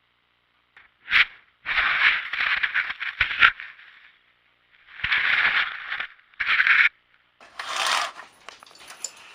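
A series of scraping strokes, each lasting up to about a second, with short gaps between them.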